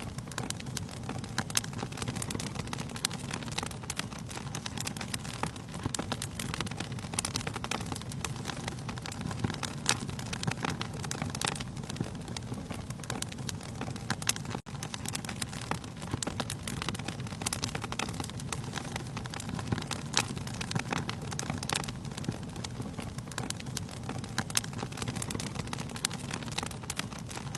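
Wood fire burning in a fireplace: a steady low rumble of flames with frequent sharp crackles and pops of burning logs. The sound drops out for an instant about halfway through.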